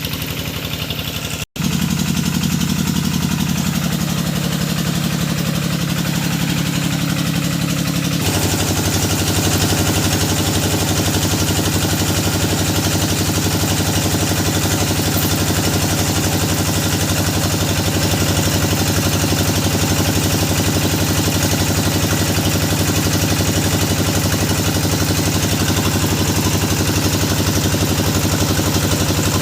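Engine of a hydraulic deep-well drilling rig running steadily. About eight seconds in its sound changes to a louder, fuller note that then holds steady.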